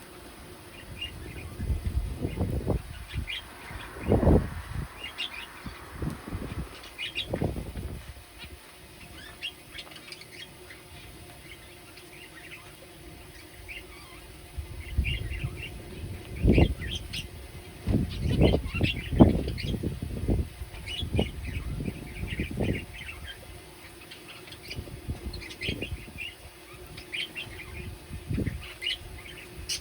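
A flock of small pet birds chirping with many short, high calls, with loud bursts of wings flapping and fluttering, most of them in the first several seconds and again around the middle.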